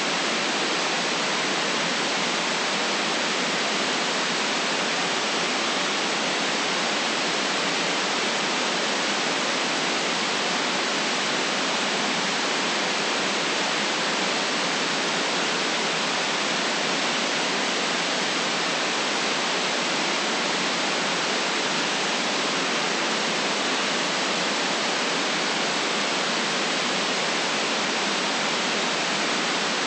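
Steady white noise: an even, unchanging hiss with the deepest bass and the highest treble cut off, and no distinct events in it.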